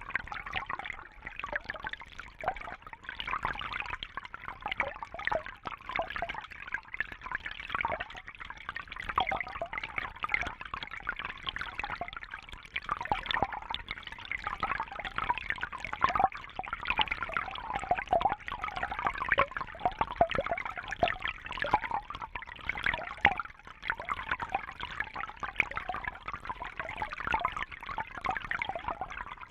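Water trickling and splashing steadily, a continuous patter of many small drips and bubbles.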